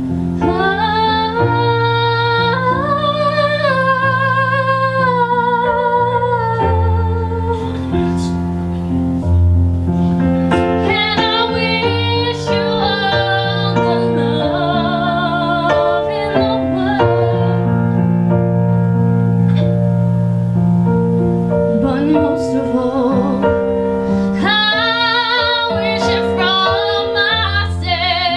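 A woman singing a slow ballad with vibrato over sustained piano chords. She pauses twice, at about 7 to 10 seconds and 17 to 24 seconds, while the piano plays on alone.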